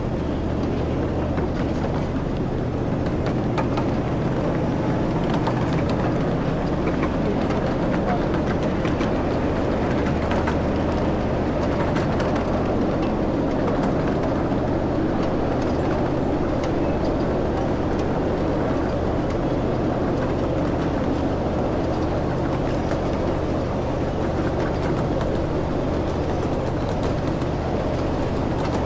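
A ride train running steadily, with a low engine drone and the rumble and light rattling of the cars in motion.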